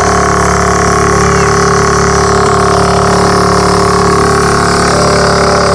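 Small engine of a bumper boat running steadily at a constant speed, close to the microphone.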